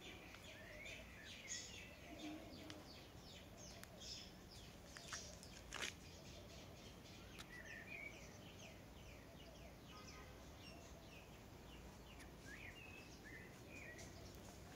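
Faint outdoor ambience with small birds chirping: many short, quick calls and little pitch glides throughout. A single sharp click sounds about six seconds in.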